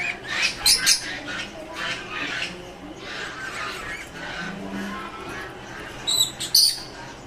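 Caged lovebirds and finches chattering, with loud shrill squawks breaking out twice, about a second in and again near the end.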